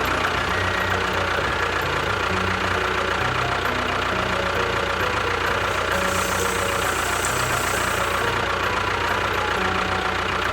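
Engine running steadily with a rough, knocking rattle, holding an even level throughout.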